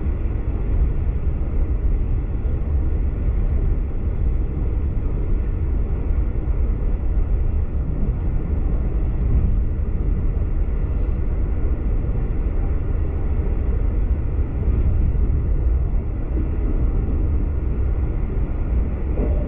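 Steady low rumble of a V/Line passenger train running at speed, heard from inside the carriage.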